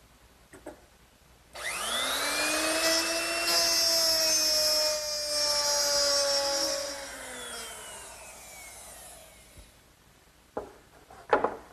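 Wood router with a 1/2-inch mortising bit switched on, whining up to speed and cutting a dado groove into a wooden shelf, then switched off and winding down. A few knocks follow near the end.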